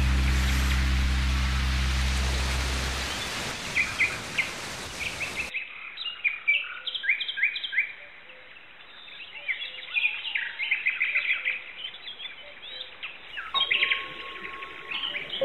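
Small birds chirping and singing in quick repeated trills, with a steady low musical drone fading out in the first few seconds. Near the end a few held musical tones come in under the birdsong.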